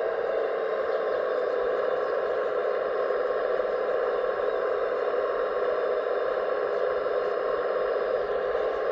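Steady mechanical whir of a radio-controlled scale construction model running, with a few faint ticks.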